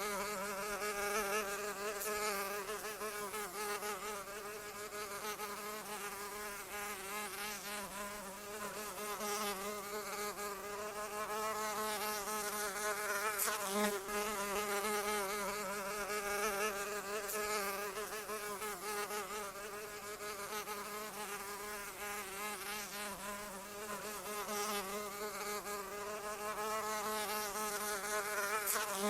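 Continuous wingbeat buzz of a flying insect: a steady drone whose pitch wavers slightly up and down.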